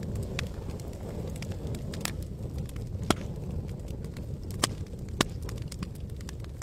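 Campfire crackling over a steady low rumble, with sharp pops from the burning wood. The loudest pops come about three, four and a half, and five seconds in.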